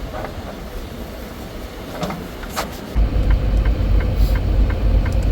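Semi truck's diesel engine running, heard in the cab; its low rumble grows suddenly louder about three seconds in, joined by a steady ticking about three times a second.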